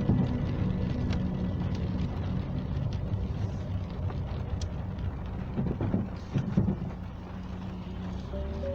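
A car driving, its engine and road noise running steadily, with a few louder thumps about six seconds in.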